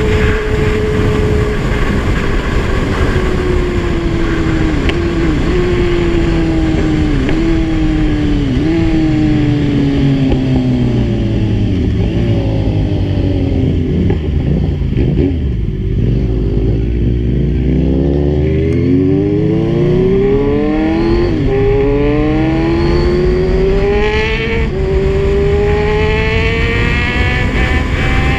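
Kawasaki Z1000 inline-four engine under way: its note falls as the bike slows, jumping up briefly at each of several downshifts, then rises again in repeated sweeps as it accelerates up through the gears. A steady low rumble of wind runs underneath.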